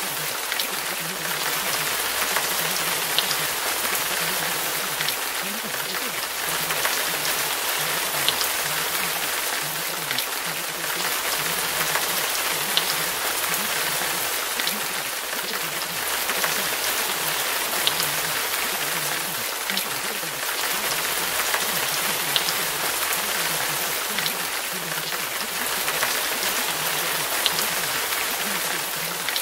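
Steady recorded rain sound, with scattered drop ticks. A faint, low voice runs beneath it, like hidden spoken affirmations.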